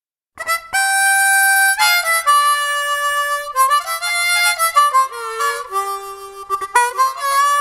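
Harmonica playing a short run of held notes and chords that starts about half a second in, the pitch stepping from note to note with a few brief breaks between phrases.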